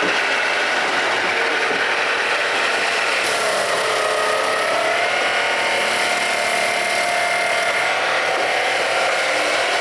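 Sawmill running steadily under power: a loud, even mechanical noise with whining tones that rise in pitch about four to five seconds in, then hold.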